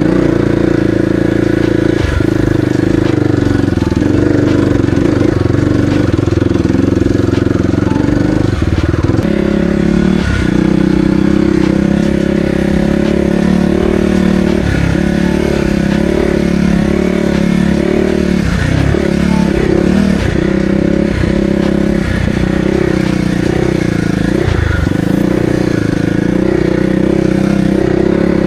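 Kawasaki KLX300R dirt bike's single-cylinder four-stroke engine running loud and steady, then from about nine seconds in its note dips and rises again and again as the throttle is rolled off and on.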